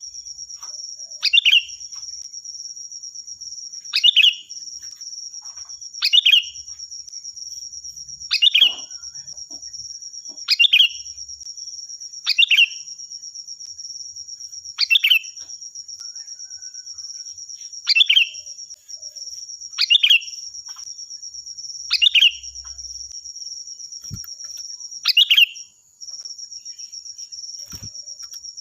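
Sooty-headed bulbul (kutilang) giving short, loud, clear calls, repeated about every two to three seconds, over a steady high-pitched buzz.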